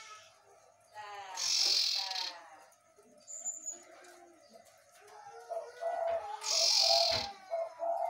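Caged common iora (cipoh) calling: whistled notes, with two loud, harsh, hissing bursts about a second long, one near the start and one about two-thirds of the way through.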